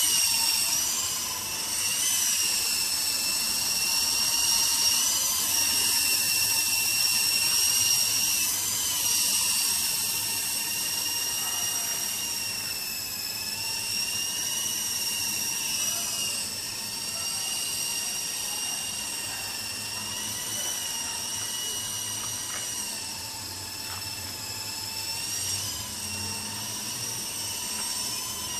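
Double Horse 9053 toy RC helicopter's motors and rotors whining steadily at a high pitch, the pitch rising and dipping slightly with the throttle, recorded by a camera carried on the helicopter.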